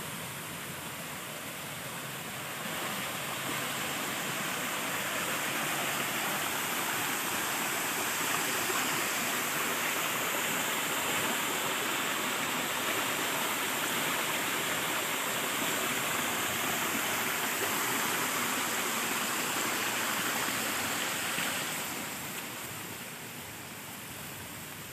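Steady rushing of flowing water, like a stream or irrigation channel. It grows louder about two seconds in and falls away again a few seconds before the end.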